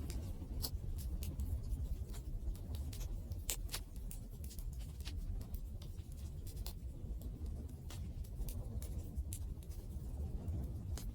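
Wood fire burning: a steady low rumble with irregular sharp crackles and pops from the burning wood, several every couple of seconds.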